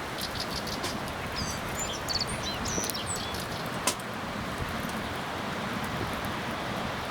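Steady rushing of strong wind, with scattered sharp clicks and a few short bird chirps about one and a half to three seconds in.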